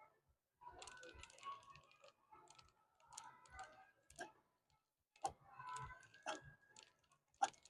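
Faint, irregular clicks and light clinks, a few with a short ring.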